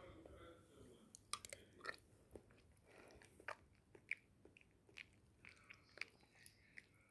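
Quiet close-miked chewing and crunching of a creamy mango dessert with crushed biscuits, with a dozen or so short sharp mouth and utensil clicks scattered irregularly through it.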